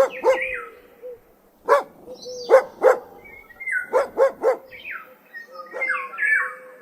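A dog barking repeatedly, in quick runs of two or three barks with short gaps between.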